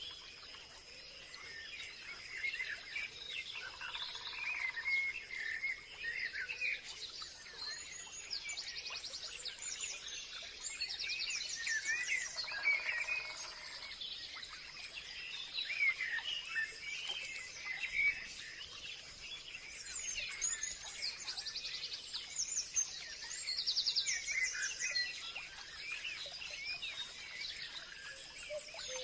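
Forest ambience of several birds chirping and singing in overlapping short calls and trills, over a steady high-pitched insect drone.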